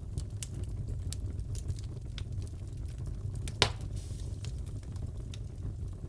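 Fireplace crackling: a steady low rumble of the fire with scattered small pops, and one loud snap about halfway through.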